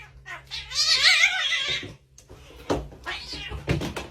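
A cat yowling: one long, wavering call starting about half a second in and lasting over a second, then shorter, fainter sounds near the end.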